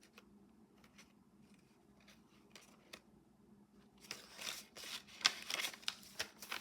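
Paper rustling and crinkling as the pages and tucked cards of a handmade junk journal are handled and turned: a few faint ticks at first, then louder rustling with sharp clicks from about four seconds in.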